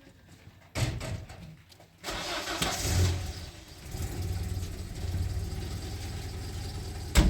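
A car engine being started: it cranks briefly, catches about two seconds in, revs up for a moment, then settles into a steady idle. A single sharp knock comes near the end.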